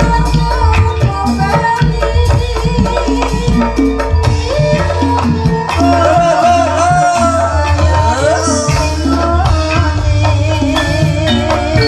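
Javanese ebeg (kuda lumping) gamelan music, loud and continuous, with dense hand-drumming and steady pitched percussion notes. A wavering melody line rides over it in the middle.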